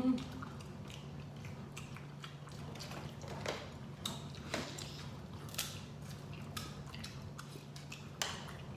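Close-up chewing and eating sounds, with scattered small clicks and crackles from mouths and food, over a steady low hum.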